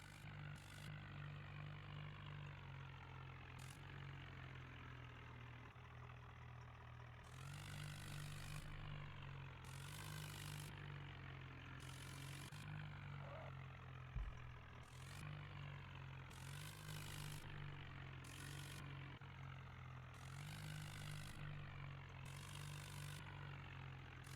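Mahindra Arjun tractor's diesel engine running, its revs rising and falling a little in steps. A single sharp knock about fourteen seconds in.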